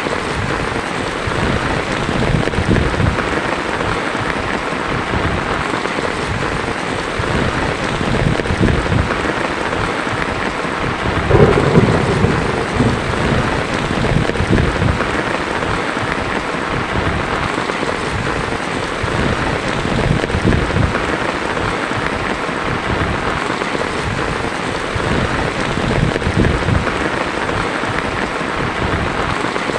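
Heavy rain drumming steadily on a tin roof, with thunder rumbling underneath; a louder thunderclap comes a little before halfway.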